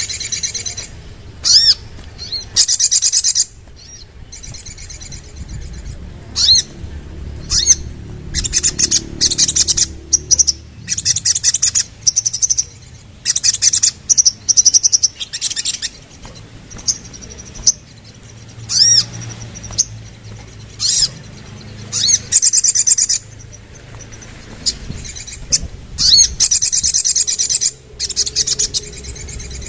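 Sogok ontong (little spiderhunter) calling: loud, sharp, high-pitched chirps in rapid bursts, repeated every second or two with short pauses between, over a faint low hum.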